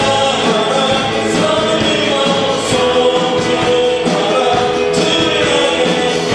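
A congregation singing a praise song together, with band accompaniment.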